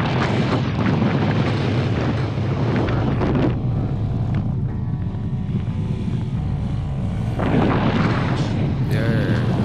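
Sport bike engine running under throttle while the bike is held in a wheelie, mixed with heavy wind noise on the microphone.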